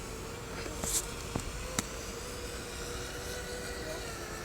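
ZMR250 FPV racing quadcopter's brushless motors and propellers whining in flight, a steady tone that wavers slightly in pitch. Three short sharp clicks come between about one and two seconds in.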